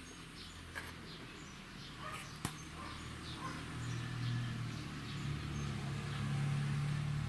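Small birds chirping repeatedly, with two sharp clicks in the first few seconds. A low steady hum comes in about halfway through and grows louder toward the end.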